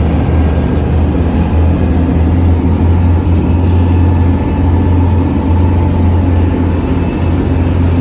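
Charter fishing boat's engine running steadily, a loud, even low drone.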